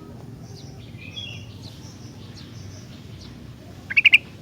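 Kutilang (sooty-headed bulbul) calling: a few faint chirps about a second in, then a loud, brief burst of sharp notes near the end, over a steady low background noise.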